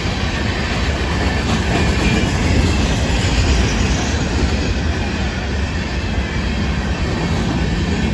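Freight cars of a Florida East Coast Railway rock train rolling past close by: a steady, loud noise of steel wheels on the rails.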